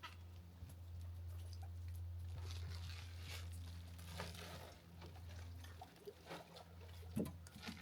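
Plastic poultry shrink bags being handled, giving irregular crinkles and rustles over a steady low hum.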